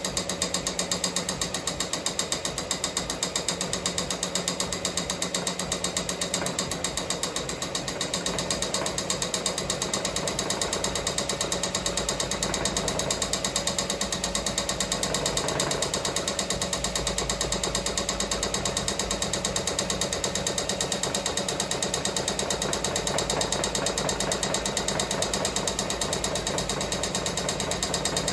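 Ricoma MT-1501 multi-needle embroidery machine stitching a design with a rapid, even clatter of needle strokes. Its rotary hook timing has just been reset after needle breaks had knocked the hook's position too early.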